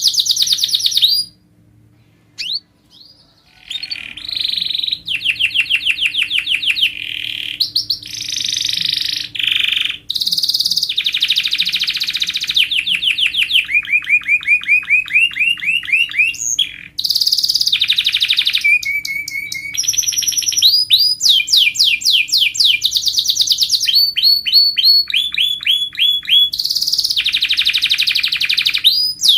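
Domestic canary singing loudly in fast trills: runs of rapidly repeated notes that switch to a new pitch every second or two, with a brief pause about two seconds in.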